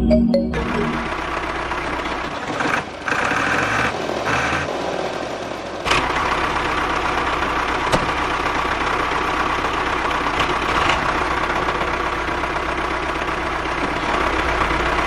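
Homemade mini tractor's motor running steadily, with a couple of brief drop-outs and a sudden change about six seconds in where the footage is cut.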